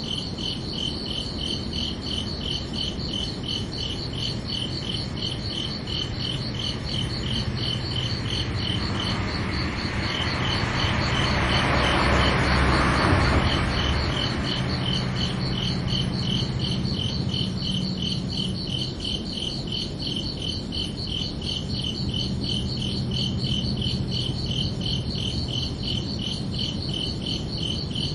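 Crickets chirping in a steady, evenly pulsed trill at two high pitches. Around the middle a broad rushing swell of noise rises and fades over about five seconds, briefly masking the lower chirps.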